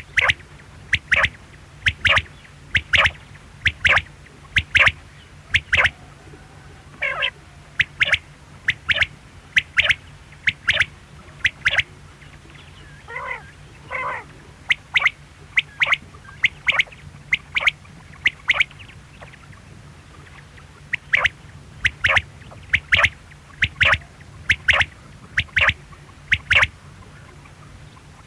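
Quail calling repeatedly in short, sharp notes about once a second, with a few wavering notes mixed in and a pause of a couple of seconds past the middle.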